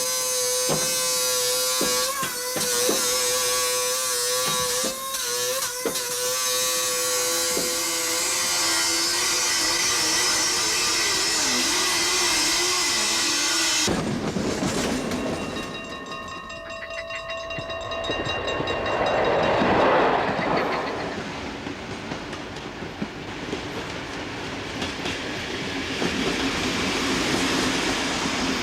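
A steady machine whine with repeated sharp clicks, then about halfway through a sudden cut to a train running on rails with clickety-clack, swelling loudest around twenty seconds in as it passes.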